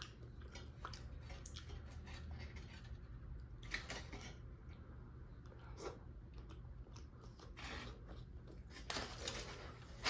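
Close-miked chewing of food, with many short wet mouth clicks and smacks and a few louder moments about four seconds in and near the end.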